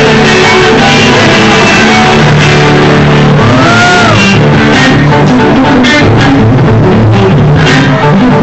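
Loud live rock music led by guitar, with one note bent up and back down about halfway through.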